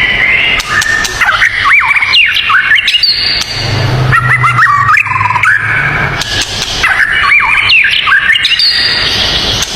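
White-rumped shama singing loudly, a fast, varied run of rich whistles, rapid up-and-down sweeps and harsh squawky notes, with short pauses between phrases.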